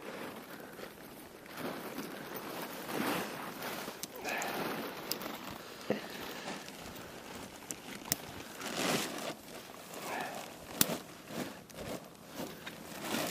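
A tent being handled and pitched: nylon fabric rustling and crinkling, with several sharp clicks and knocks from the poles and footsteps on the ground.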